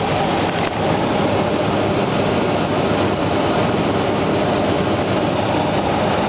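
Aircraft cabin noise in flight: the engine and rushing air make a loud, steady drone that does not change.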